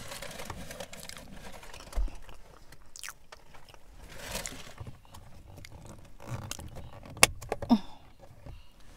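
A person chewing a mouthful of burrito close to the microphone, with small wet mouth clicks and smacks; one sharper click comes about seven seconds in.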